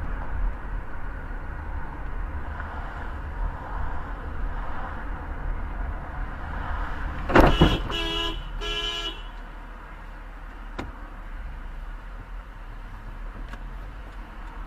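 Steady low rumble of a car on the road, then about seven seconds in a sudden loud bang, followed at once by two short car-horn honks. Afterwards the rumble continues more quietly.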